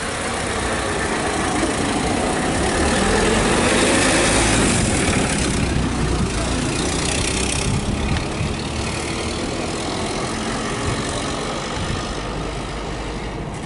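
1909 Ford Model T's four-cylinder flathead engine running as the car pulls away, building for the first few seconds and then slowly fading as it moves off.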